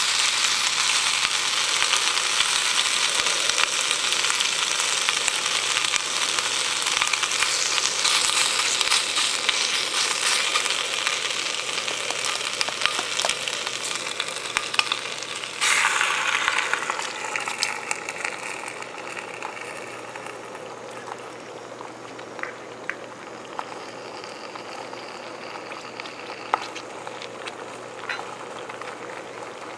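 Bacon sizzling in a small cast-iron skillet over a gas burner. About fifteen seconds in, an egg goes into the hot fat with a sudden louder burst of sizzling, which then settles to a quieter hiss with occasional pops.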